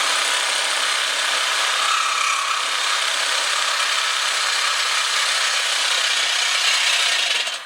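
A power tool cutting through the exhaust pipe to remove the muffler. It makes a steady, harsh grinding noise that cuts off abruptly near the end.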